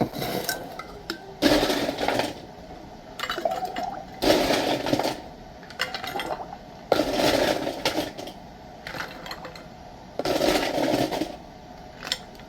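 Dishes and kitchenware clattering and clinking as they are handled, in four louder bursts a few seconds apart.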